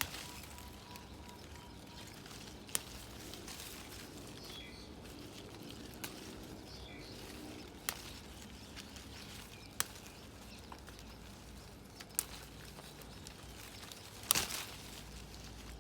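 Outdoor ambience with a steady hiss and a few faint bird chirps, broken by sharp clicks or snaps every couple of seconds; the loudest is a short cluster of them near the end.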